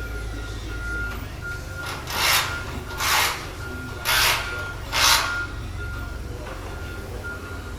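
Four rasping strokes about a second apart, like something being scraped or filed by hand. Behind them, a steady high beep repeats on and off over a low hum.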